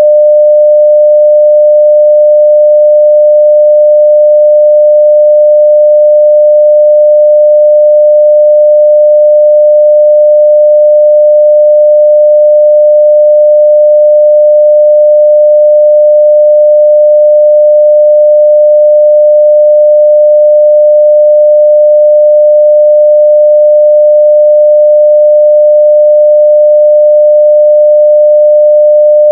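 A continuous 600 Hz sine-wave test tone at full level, one pure pitch held perfectly steady.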